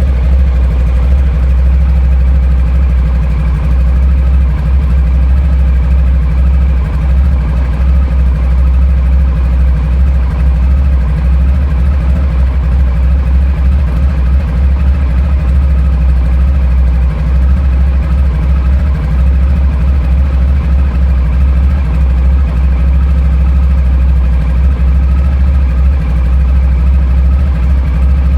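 Honda ST1100 Pan-European's V4 engine idling steadily as it warms up after a cold start.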